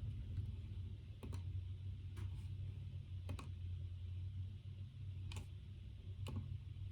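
Computer keyboard keys clicked sparsely, single strokes and quick pairs about once a second, over a steady low hum.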